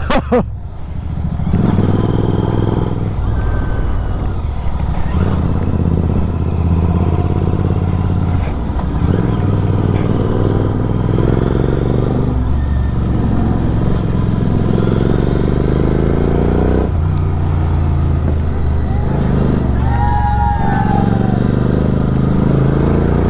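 Motorcycle engine running on the move, its note rising and falling as the throttle is worked and gears change, with a short drop about half a second in.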